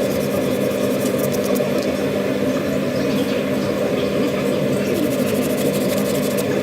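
A motor running steadily with a constant low hum, even in level and without breaks.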